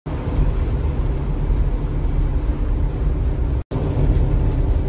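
Bus driving: a loud, steady low rumble of engine and road noise with a thin high whine over it. It cuts out for an instant about three and a half seconds in, then carries on.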